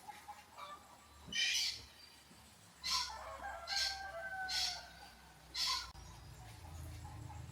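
Chickens clucking and squawking, in five short, sharp calls, with a wavering cackle in between.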